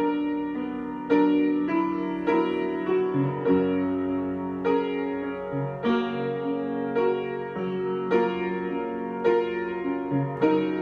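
Solo piano improvising at a slow pace, a new chord or note struck about every second and left to ring into the next.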